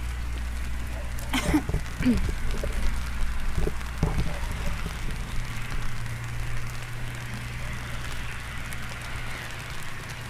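Rain falling outdoors over a steady low rumble, with a few brief louder sounds about a second and a half and four seconds in.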